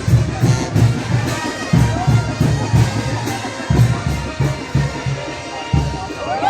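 Mexican brass band playing chinelo dance music: a bass drum beats steadily about four strokes a second under the band, dropping out briefly near the end before a sustained brass chord comes in.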